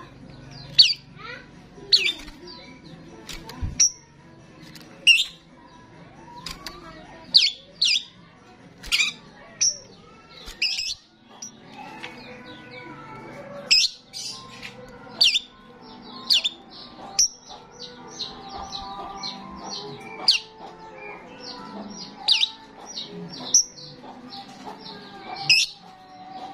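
Starling calling: short, loud, sharp high chirps and whistles repeated roughly once a second, over a softer running chatter of lower warbling notes.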